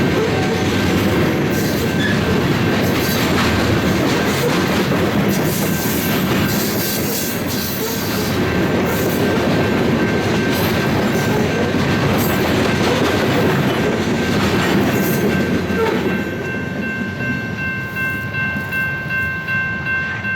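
Freight train cars rolling past close by, wheels clattering steadily over the rail joints. Near the end the train noise fades and a grade-crossing bell keeps ringing.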